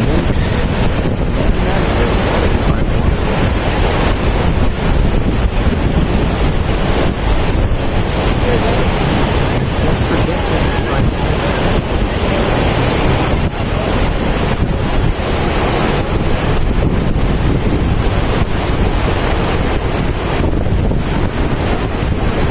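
Steady rush of water pouring down a man-made waterfall off a canal bridge, with wind buffeting the microphone.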